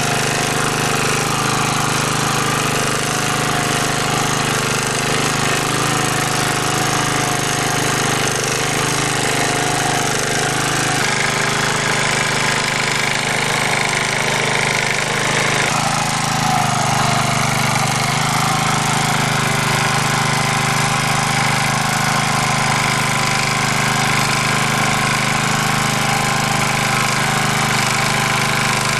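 Engine of an MD3 two-wheel walk-behind tractor running steadily under load while its rotary tiller works the soil in first gear. The note shifts slightly twice, about 11 and 16 seconds in.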